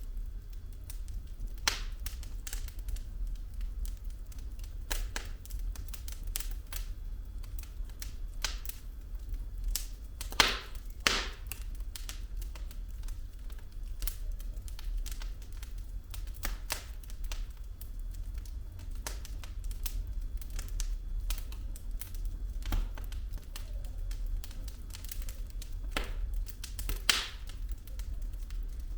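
Wood fire burning in a fireplace: logs crackling with irregular sharp pops, a few louder pops about ten seconds in and near the end, over a steady low rumble.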